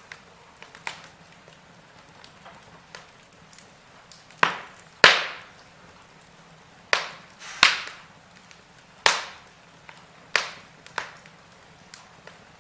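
Wood fire in a fireplace crackling: scattered faint crackles and about seven sharp, loud pops, each with a brief fading hiss, in the second half.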